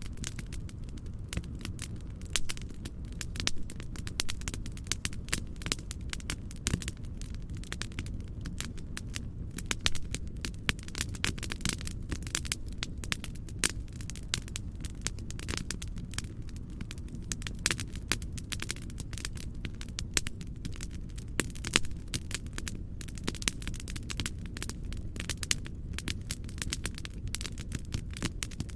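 Wood fire crackling in a fireplace: dense, irregular pops and snaps over a steady low background noise.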